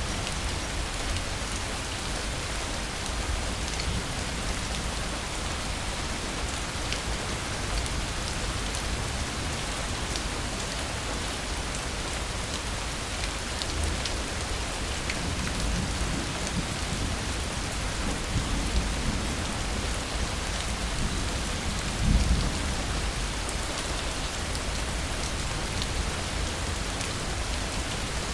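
Steady rain falling, with scattered drop ticks. A low rumble of thunder builds over the second half and is loudest about three quarters of the way through.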